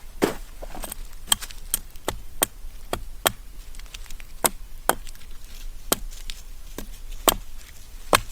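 A blade chopping into wood: a series of sharp, irregularly spaced strikes, about fourteen in all, typical of splitting or chopping kindling at camp.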